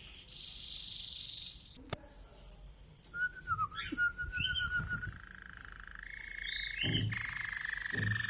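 Domestic canary singing in long rolled trills: a high trill for about a second and a half, then after a pause a lower rapid trill that steps up in pitch and holds. Two soft low thumps come near the end.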